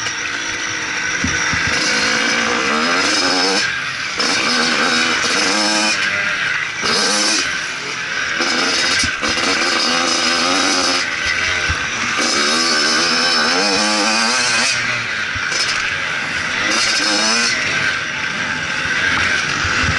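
Motocross bike engine revving hard, its pitch climbing and then dropping back again and again every second or two as the throttle is worked and gears change, over a steady rushing noise.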